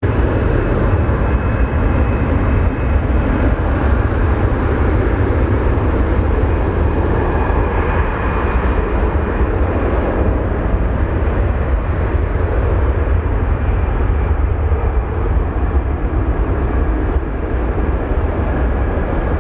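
Jet airliner engines running steadily, a loud rumble with a faint whine. The high end swells a few seconds in and dulls again in the second half.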